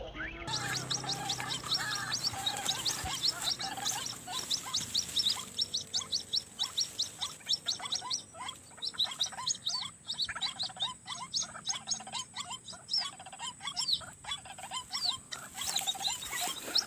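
Rapid, overlapping, repeated calls of white-breasted waterhens (ruak-ruak), many short notes a second, starting abruptly about half a second in.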